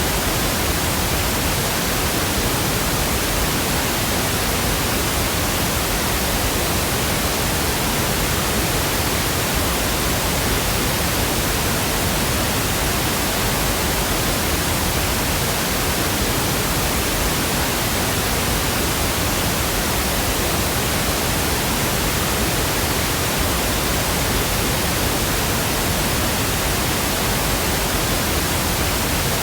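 Steady, unchanging pink noise: an even hiss spread across all pitches with no breaks or tones.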